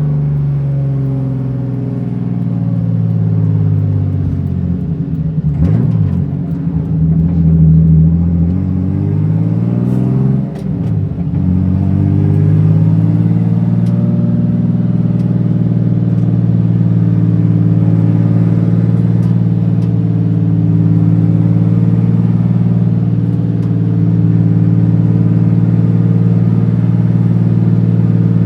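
BMW E36 M3 race car's engine heard from inside the car: the revs fall away, climb again, dip sharply about ten seconds in, then hold steady from about twelve seconds on.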